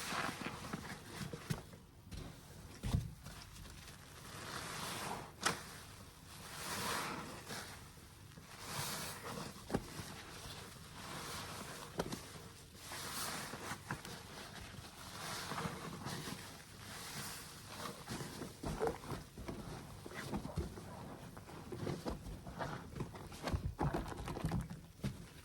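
Soapy sponge being squeezed again and again, each squeeze a swell of squishing noise about every two seconds, with sharp little pops and clicks in between.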